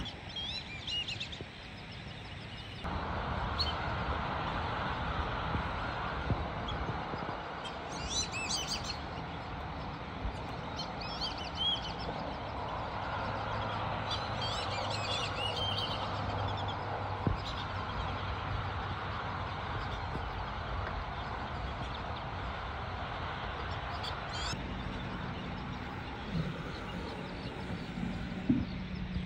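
High, wavering bird chirps come and go over a steady rushing background noise. The noise sets in about three seconds in and drops away near the end.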